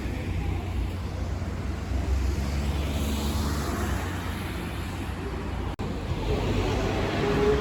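Sightseeing boat's engine running with a steady low rumble under an even hiss, with a brief dropout a little before the end.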